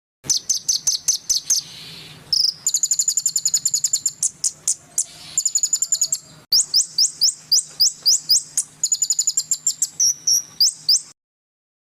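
A songbird singing rapid trains of high, sharp chirps, about seven notes a second, in several phrases broken by short pauses. The song stops abruptly about a second before the end.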